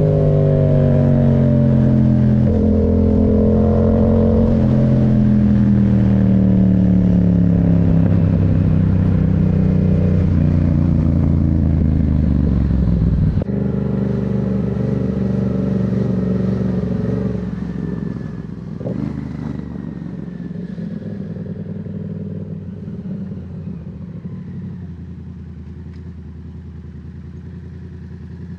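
Yamaha MT-07's parallel-twin engine under way, its note shifting in steps through the first half. About halfway through, the throttle closes: the low end drops away suddenly and the engine note fades steadily as the bike slows.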